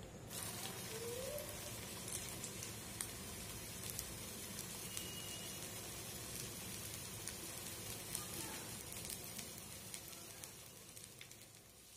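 A breadcrumb-coated egg devil (egg chop) frying in hot oil in a non-stick pan: a steady sizzle with scattered small pops and crackles. It starts as the chop goes into the oil and slowly dies down near the end.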